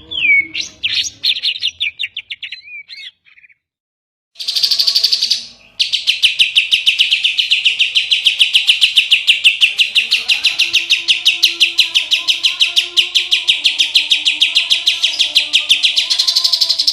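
Songbird song: varied whistled notes and slurs, a short silence about three and a half seconds in, then a fast, even run of sharp repeated notes, about seven a second. Softer, lower warbling notes join under the run from about ten seconds in.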